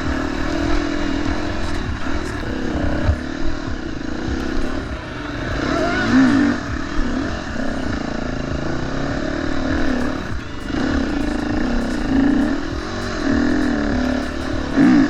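KTM enduro dirt bike engine being ridden, its revs rising and falling again and again with throttle changes.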